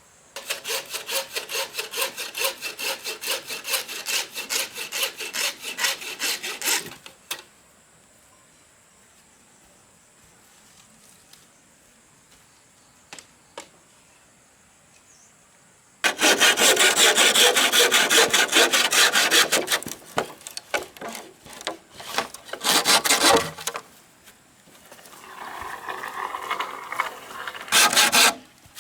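Hand saw cutting in quick back-and-forth strokes, in two spells: one for the first several seconds, then after a long pause a louder spell that stops and starts again near the end.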